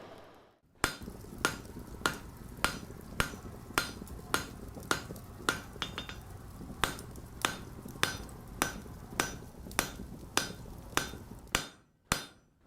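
Blacksmith's hammer striking steel on an anvil in a steady rhythm of a little under two blows a second, about twenty in all, each with a short metallic ring.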